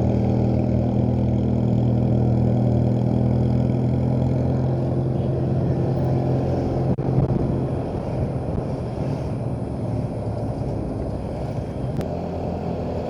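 Motorcycle engine running at a steady speed while riding, with wind and road noise on the microphone. About halfway through the engine note drops away, leaving mostly rushing wind and road noise.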